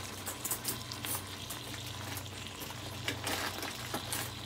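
Diced chicken frying in olive oil and soy sauce in a pan: a steady sizzle with scattered crackles, over a low steady hum.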